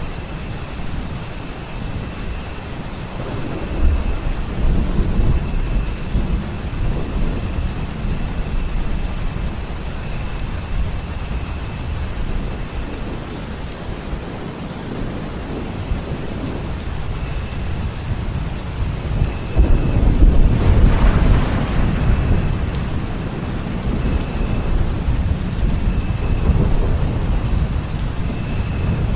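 Steady rain falling, with rolls of thunder: a rumble about four seconds in and a louder one about twenty seconds in.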